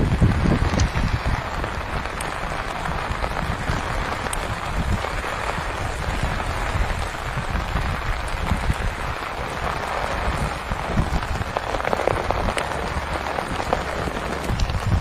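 Heavy rain falling steadily on a surface.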